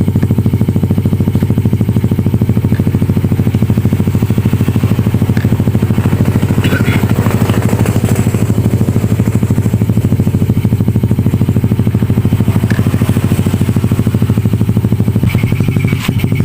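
A small engine running steadily at an even, fast pulse, with a few light clinks about halfway through.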